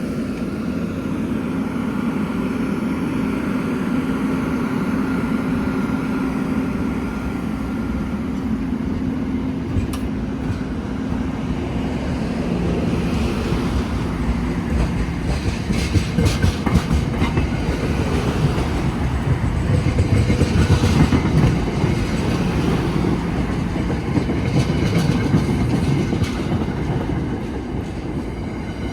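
NJ Transit commuter train passing close by: a steady hum of the train in the first few seconds, then the rumble and repeated clacking of its wheels over the rail joints, loudest a little past the middle.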